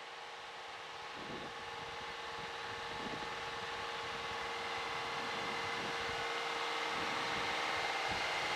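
Light airplane's piston engine and propeller droning steadily, heard from inside the cockpit, growing slowly louder.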